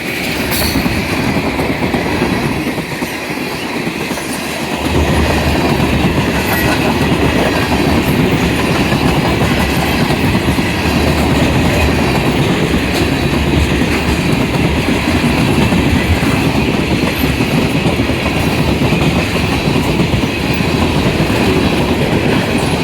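Freight cars of a long, fast manifest train rolling past at speed: steady wheel clatter and rumble on the rails, growing louder about five seconds in.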